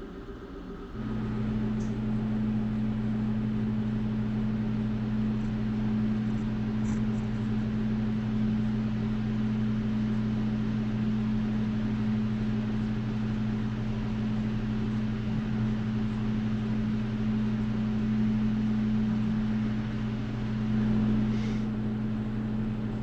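A fan-driven electric appliance switches on about a second in and runs with a steady hum.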